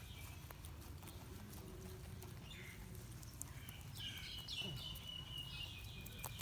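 Rabbits munching their food, heard as faint scattered crisp clicks and crunches over a low rumble. From about four seconds in there is also a thin, high, chirping call.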